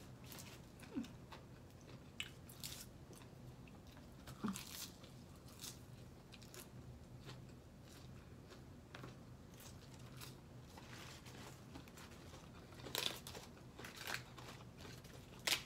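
A person chewing and crunching mouthfuls of papaya salad, with scattered short crunches and mouth clicks. The crunches get louder and come in clusters near the end.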